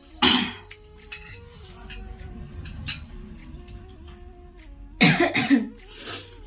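Person coughing: one sharp cough just after the start, then a short fit of several coughs about five seconds in.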